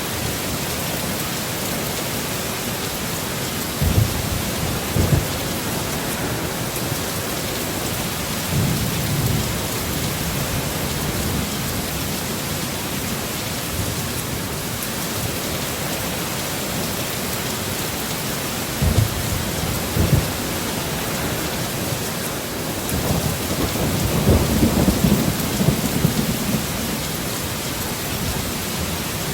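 Heavy rain falling steadily, with thunder: a few short, sharp low rumbles a few seconds in and again around twenty seconds in, and a longer rolling rumble in the last few seconds.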